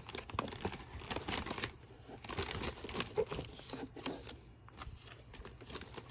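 Sticker sheets and paper handled up close: crinkling and rustling with small taps and clicks, busiest in the first couple of seconds, then sparser.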